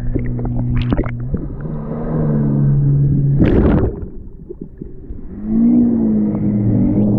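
An engine running and changing speed, its pitch rising about two seconds in. A short rushing burst comes about three and a half seconds in, then the engine drops away briefly and comes back with a wavering pitch.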